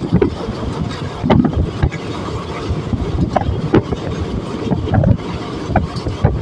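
Passenger train running, heard from on board: a steady rumble with wind buffeting the microphone and occasional irregular knocks from the wheels and rails.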